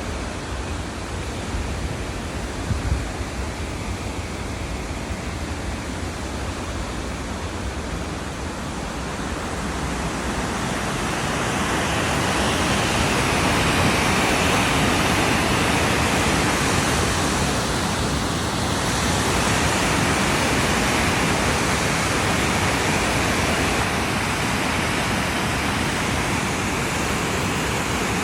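River water rushing, a steady noise that swells louder about ten seconds in and then holds.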